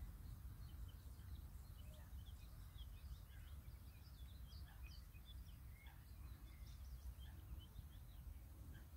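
Faint outdoor bird chorus: many short chirps and tweets from several small birds, overlapping irregularly, over a low steady rumble.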